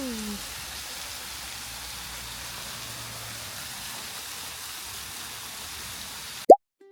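Steady rushing noise of water outdoors. Near the end a short, loud rising tone sweeps up and the sound cuts off abruptly.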